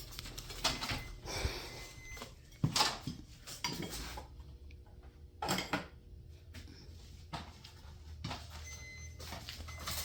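Irregular metal clinks and knocks from garage door roller hardware being handled and fitted.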